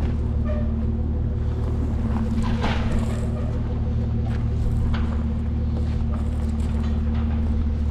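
A large vehicle engine idling steadily, with a few clanks and knocks over it about two to three seconds in and again around five seconds.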